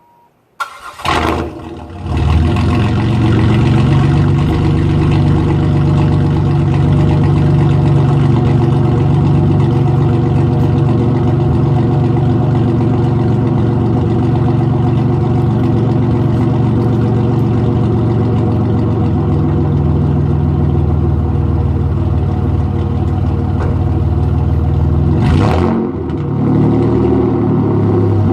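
Supercharged 3800 Series II V6 of a 2004 Monte Carlo SS, straight-piped with no catalytic converter or resonator, cranking and starting about a second in, then running at a steady, loud idle. Near the end the sound dips briefly and the pitch wavers.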